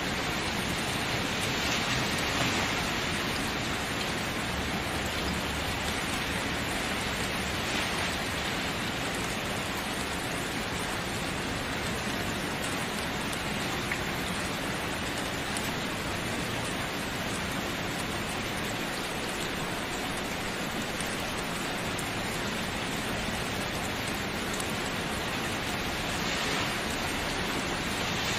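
Steady rain falling, a dense even hiss of drops with slight swells in intensity now and then.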